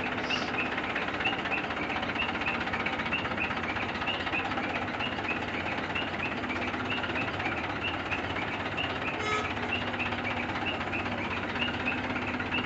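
A vehicle engine running steadily, with a short high-pitched chirp repeating about twice a second.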